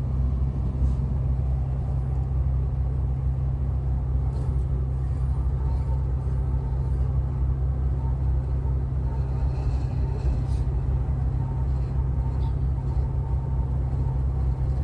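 Heavy truck cruising on the motorway, heard from inside the cab: a steady low engine drone with road noise, and a few faint light ticks.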